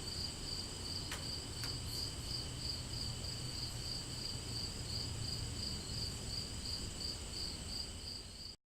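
A cricket chirping steadily at about two to three chirps a second, over a faint low hum; it cuts off abruptly near the end.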